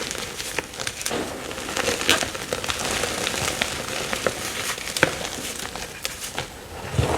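Fresh chalk blocks being crushed and crumbled, a continuous run of crunchy crackles with sharp snaps, the sharpest about two and five seconds in, and a dull thump near the end.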